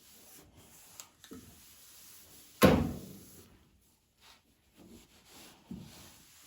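A single heavy thump with a short ringing decay about two and a half seconds in, among a few lighter knocks and clicks.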